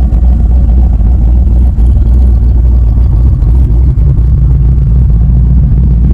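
A car engine running with a steady, loud low rumble.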